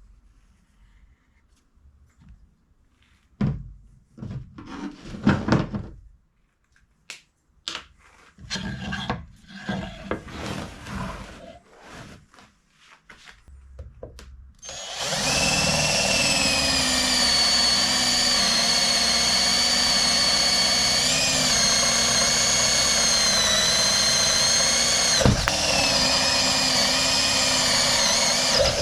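Scattered knocks and rattles of parts being handled, then about halfway through an electric power tool starts and runs steadily with a high whine, dipping briefly once, with a single sharp knock near the end.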